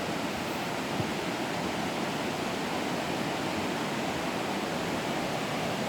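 Steady rush of creek water flowing over rocks in a salmon spawning channel.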